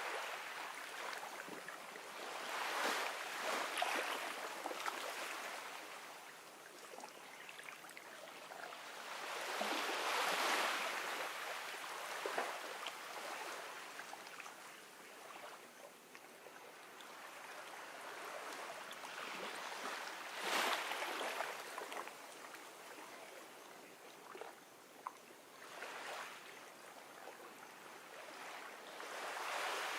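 Gentle ocean waves washing in on a beach, a hiss of water that swells and fades every few seconds, with the biggest surges about a third and two thirds of the way through.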